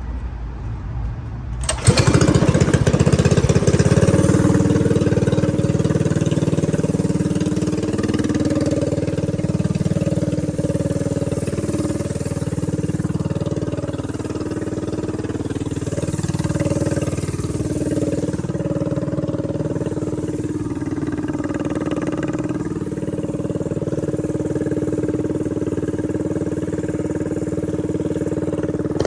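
Stretched mini bike's small engine cutting in sharply about two seconds in, then running under way, its pitch rising and falling with the throttle.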